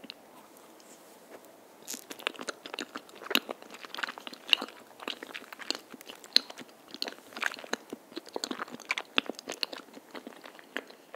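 Close-miked chewing of a soft cream-filled rice cake (vanilla cream tteok), as an eating-sound mukbang: many irregular sharp mouth clicks, picking up about two seconds in.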